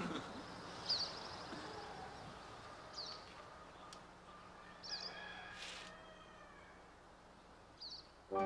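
A small bird chirping: four short, high chirps about two seconds apart, faint over quiet background noise.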